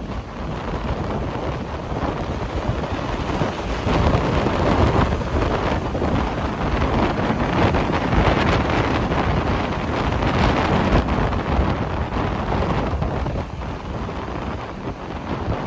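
Very strong wind buffeting the microphone in gusts, a dense low rumble that swells and eases every few seconds, with sea waves breaking underneath.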